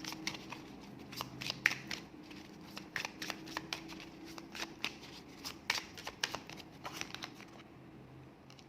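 Tarot cards being shuffled by hand: a rapid run of crisp card-on-card clicks and flicks that thins out and stops near the end.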